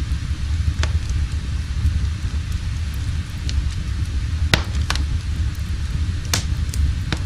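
Wood fire burning in a fireplace: a steady low rumble with sharp crackling snaps scattered through it, the strongest a little past halfway and near the end.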